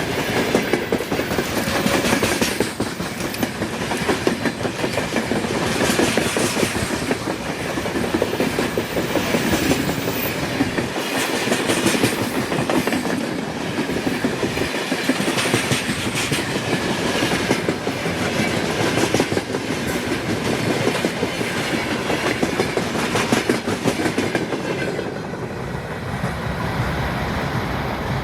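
Freight train wagons rolling past at speed, the wheels clattering on the track, pulsing louder about every two seconds. Near the end the clatter thins out and grows quieter.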